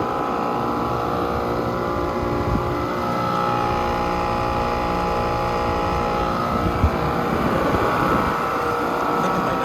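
A compressor running with a steady hum made of many even tones over a low rumble, with a short knock about seven seconds in. The owner finds this noise suspicious and takes it for a sign of a fault.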